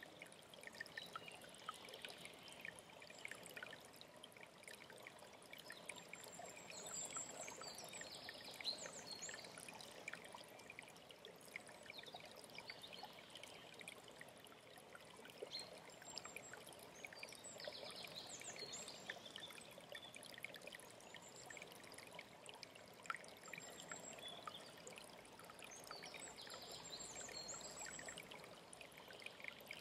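Quiet alpine stream trickling and splashing, with a songbird singing a short phrase three times, about every ten seconds.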